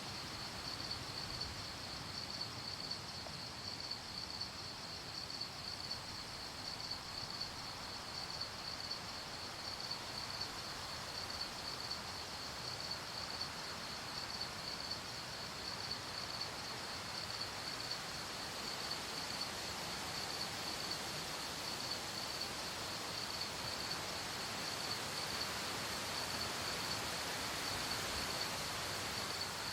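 Crickets chirping in a steady, evenly pulsing chorus over a soft background hiss of night ambience.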